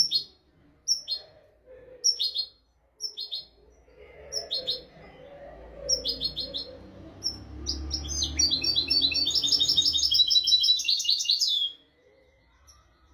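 European goldfinch singing: a string of short, high, downward-sliding notes about one a second, then a fast twittering run of trills that stops abruptly near the end. A low rumble runs underneath the middle part.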